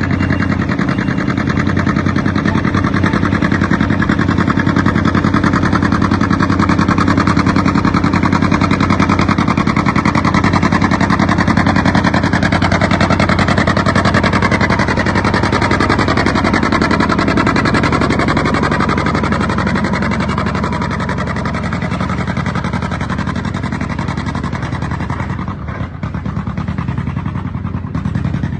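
Modified John Deere 70 two-cylinder pulling tractor engine of about 920 cubic inches running flat out under load during a tractor pull hook. The note wavers in pitch midway, and the level sags a little in the last few seconds.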